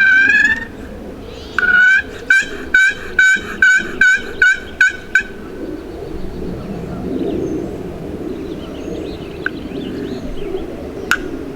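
Wild turkey calling: a short call at the start, then a run of about ten evenly spaced yelps, roughly three a second, ending about five seconds in. After that only quieter woods background, with one sharp click near the end.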